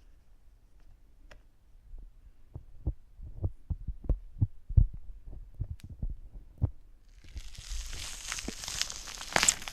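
Tweezers working wax inside a silicone ear model held to the microphone: a run of soft, muffled, irregular taps, then, from about seven seconds in, a close scratchy rustling with crackles.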